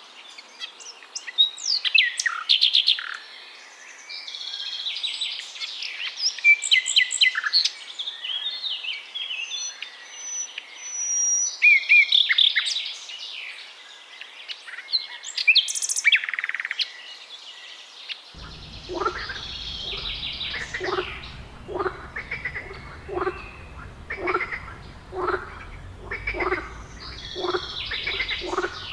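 Small birds chirping and trilling in a mixed chorus. About two-thirds of the way through, the background changes and a frog starts croaking steadily, a little more than once a second, with bird chirps still going above it.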